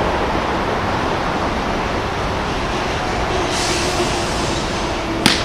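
Steady rumbling noise with a single sharp crack near the end.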